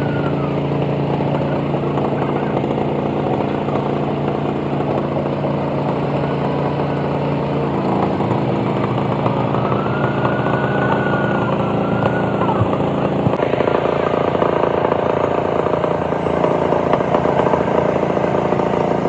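An engine running steadily, with a faint wavering high tone over it now and then.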